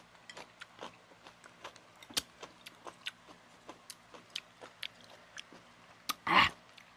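Close-up chewing and mouth clicks of people eating grilled isaw (chicken intestine skewers), many small irregular clicks. A short, louder noisy burst comes near the end.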